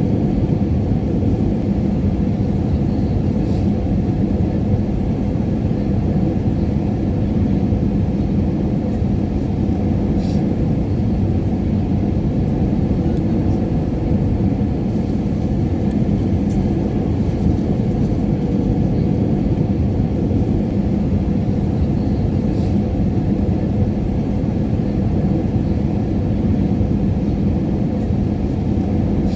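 Airliner cabin noise in flight: a steady, unchanging low rumble of engines and airflow with a faint hum running through it, broken only by a few faint clicks.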